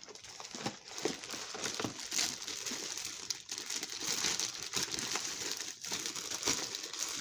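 Packing material being unwrapped by hand from model train cars: a steady run of crinkling with many small crackles.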